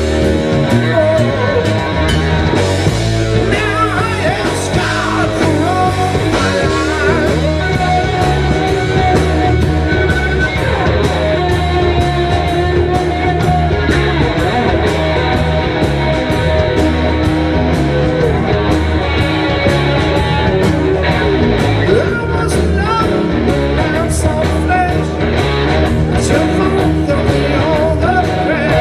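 Live rock band playing, with electric guitar, bass and drums, and a singer's voice coming through in places.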